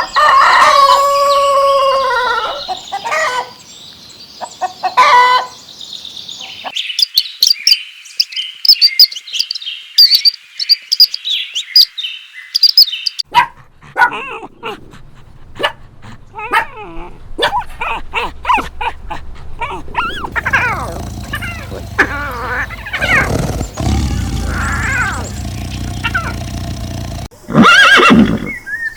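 A run of animal calls: a loud drawn-out call with a wavering pitch at the start, then birds chirping and twittering, then more animal calls mixed with bird song and another loud call near the end.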